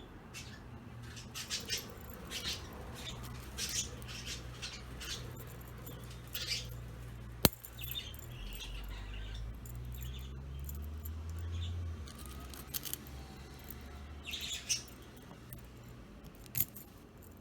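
Small metal chain toy jingling and clinking in short rattles as budgerigars play with it, with a sharp click about seven and a half seconds in, and budgie chirps mixed in.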